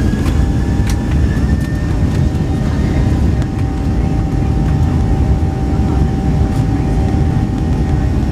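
Boeing 737 taking off, heard from inside the cabin: a loud steady rumble with a steady engine whine over it, and a few brief rattles.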